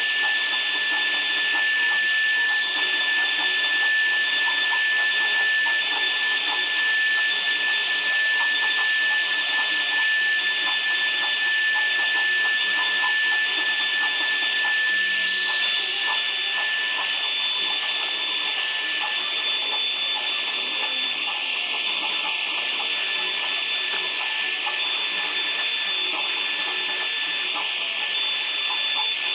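Woodworking power tool running steadily with a high-pitched whine over a hiss. The whine fades a little in the second half, then returns near the end.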